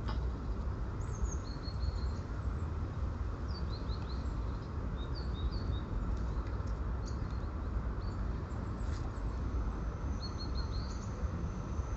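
Small birds chirping in short, quick series, over a steady low rumble. About ten seconds in, a thin, steady high tone sets in.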